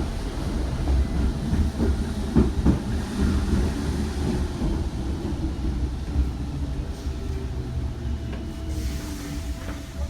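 Train running on the rails, a steady low rumble with wheel clicks over rail joints in the first few seconds. A steady whine comes in over the last few seconds.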